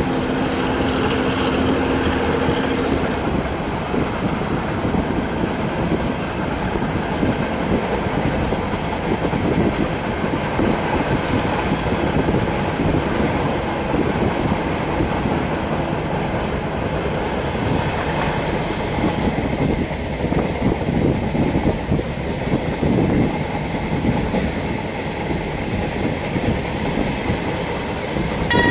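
A train running along the track, heard from inside a passenger coach: a steady rumble with the wheels clattering over the rails. A low steady hum sounds for the first few seconds, then fades out.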